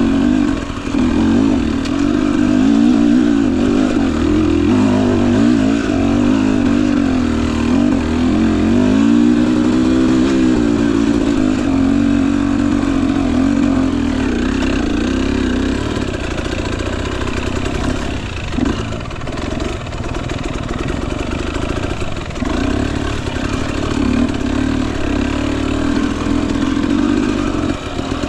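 Husqvarna TE250i fuel-injected two-stroke single-cylinder dirt bike engine running under way on a trail, its revs rising and falling with the throttle, with a run of revving about a third of the way in before it settles lower and steadier.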